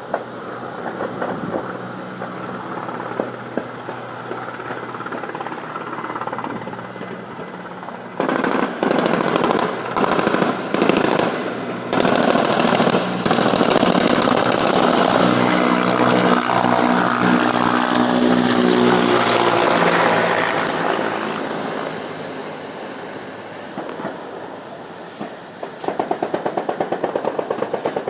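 Military helicopter flying close past, its rotors and turbine engines swelling loud about eight seconds in with rapid repeated cracks of gunfire, the engine pitch falling as it goes by and fading. Near the end the rotor blades thud in a steady beat of about six a second.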